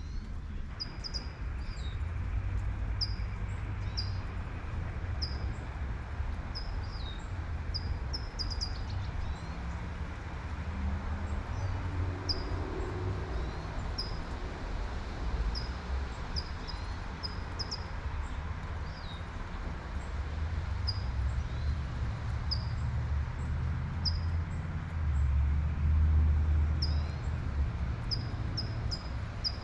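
A bird chirping over and over, short high chirps about once a second, over the steady hiss of light rain and a low traffic rumble that swells near the end.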